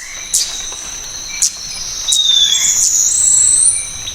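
Hummingbird chirping: short, sharp high chirps and thin squeaky whistles, one falling and one rising, over a steady high-pitched insect trill.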